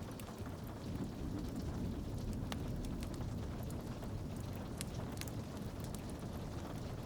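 Rain on a window pane with a crackling wood fire: a steady low rumbling hiss, with sparse sharp pops and snaps from the fire, a few louder ones near the middle.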